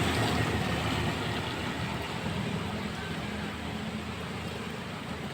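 A vehicle's engine and tyres on a wet road, slowly fading as it moves away, under a steady hiss of heavy rain.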